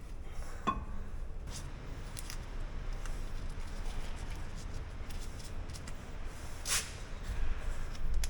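Brake parts being handled during a rear brake pad change: a sharp metallic tink about a second in, scattered small clicks, and a short rasp near the end, over a steady low rumble.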